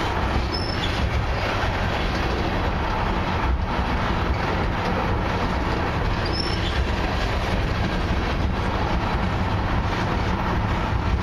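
Freight train tank cars and covered hoppers rolling past close by: a steady rumble and clatter of steel wheels on the rails. There are two brief, faint high wheel squeals, one near the start and one about halfway through.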